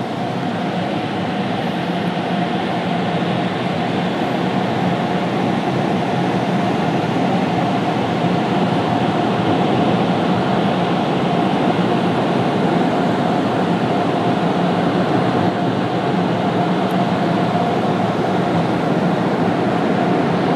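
Automatic car wash air dryers blowing on the car, heard from inside it: a loud, steady rushing noise with a constant whine, growing a little louder over the first several seconds.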